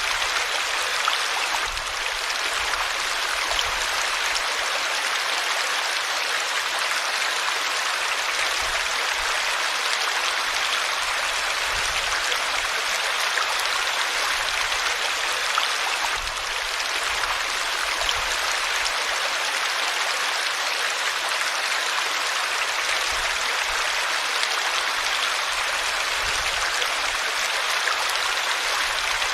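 River water flowing in a steady, even rush, with no pauses or changes.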